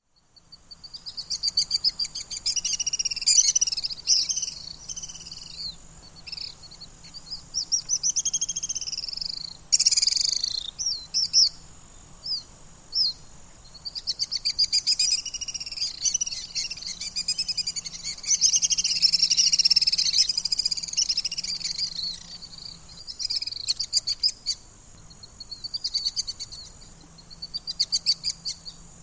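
Common swifts screaming: shrill, trilled screams in repeated bouts, several calls overlapping, thinning out after about two-thirds of the way through.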